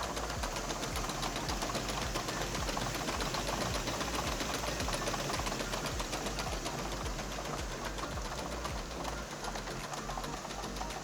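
Rotary tablet press running, a steady rapid clatter of clicks over a continuous machine hum.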